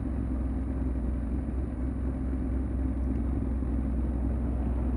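Vehicle engine running steadily at a low, even pitch, with no revving.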